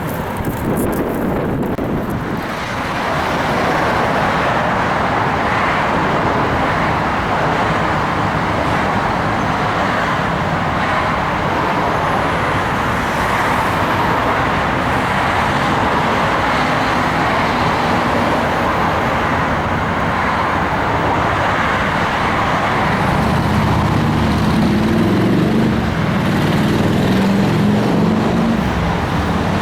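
Steady road traffic noise, getting louder about two and a half seconds in; a low vehicle hum comes up in the last few seconds.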